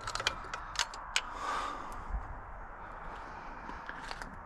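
Scattered light metallic clicks and clinks of hand tools and small parts being handled, several in the first second or so, with a short rustle about a second and a half in.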